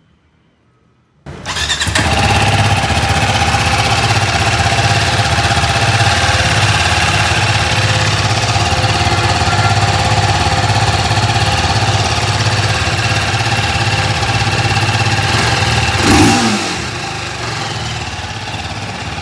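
TVS Apache RTR 310's 312 cc single-cylinder engine running steadily at idle through its exhaust. It cuts in suddenly about a second in, and near the end a brief louder falling sweep comes before it settles somewhat quieter.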